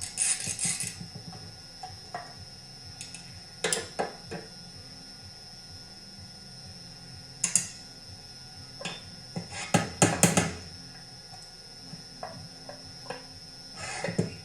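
Small metal clicks and clinks of tools and engine parts being handled while the connecting rod cap of a McCulloch CP125 chainsaw is unbolted, the loose roller bearings of the rod's big end coming free. A short cluster of quick clinks comes a little past the middle, among a handful of single taps.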